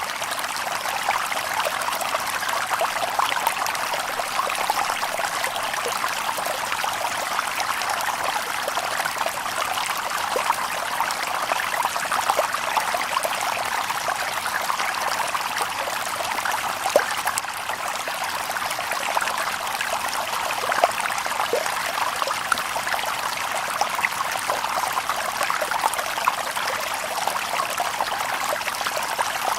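Shallow stream babbling and trickling over stones, a steady bubbling flow with small splashes here and there.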